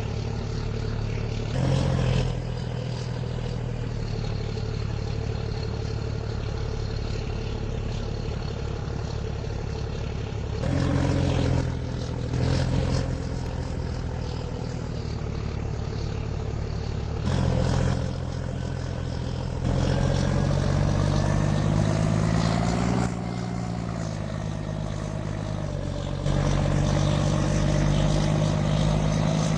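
Heavy truck engine running steadily, with several spells of a few seconds where it gets louder and its pitch shifts as it is revved.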